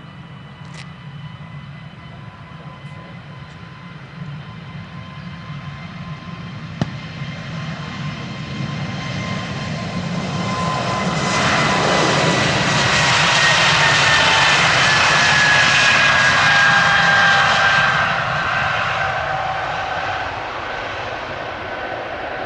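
Airbus A220-300 jet with Pratt & Whitney PW1500G geared turbofans passing by: the engine noise builds steadily, is loudest about halfway through, and eases off near the end, its whine dropping in pitch as the aircraft goes past.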